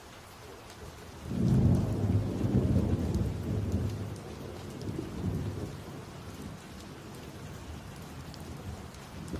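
Thunder rumbling over steady rain. The rumble comes in suddenly about a second in, is loudest for the next two seconds, then dies away slowly while the rain keeps hissing.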